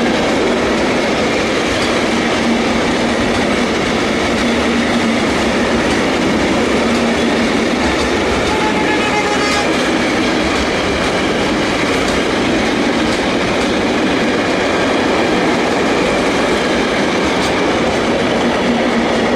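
Container wagons of a freight train rolling past at speed: a steady, loud rumble and rattle of steel wheels on the rails, with scattered sharp clicks.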